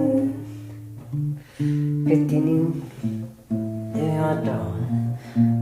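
Guitar music: plucked guitar notes and chords, moving to a new pitch every half second to a second, with short gaps between some phrases.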